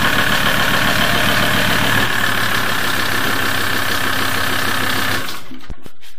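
VW T4 Transporter's 2.5 TDI five-cylinder diesel engine idling; its note changes about two seconds in, and the engine sound cuts off suddenly about five seconds in.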